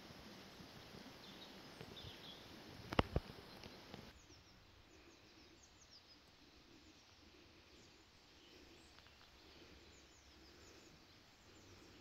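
Faint outdoor ambience with small birds giving short, high chirps, mostly in the second half. Two sharp knocks close together about three seconds in are the loudest sound.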